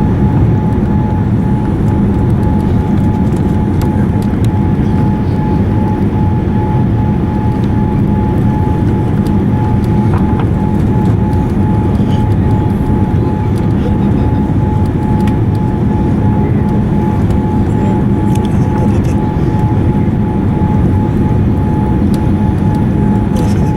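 Steady cabin noise inside a Boeing 787-9 airliner: a constant low rumble of engines and airflow, with a thin steady whine running through it.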